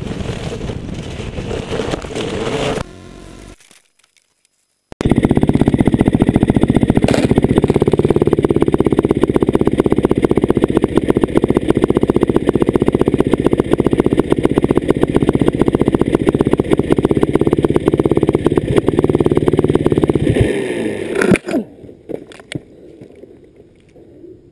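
Dirt bike engine running while riding the trail, fading and briefly going almost silent about three seconds in. Then the engine of the downed bike runs loud and steady close by for about fifteen seconds before cutting off, followed by quieter knocks and scrapes as the bike is handled.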